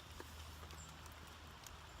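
Small wood campfire crackling faintly, with scattered soft pops and ticks.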